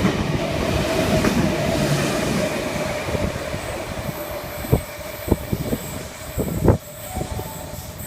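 V-set double-deck intercity electric train passing through the station. Its rumble and a steady whine fade over the first few seconds, followed by a handful of sharp clacks near the end.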